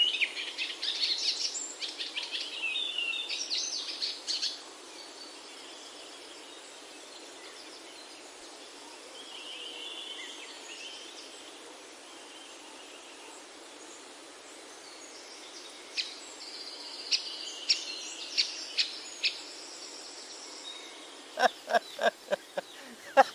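Birds chirping and calling, busiest in the first few seconds and again in scattered sharp chirps later, over a steady background hiss. Near the end comes a quick run of sharp, evenly repeated sounds.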